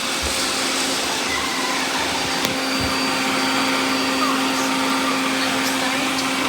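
Several robot vacuums running at once: a steady whirring hum of suction motors and brushes, with a light click or two.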